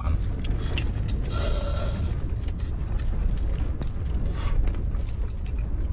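Strong wind buffeting the vehicle, a steady low rumble, with scattered clicks and knocks of things being handled, and a brief hiss about a second and a half in.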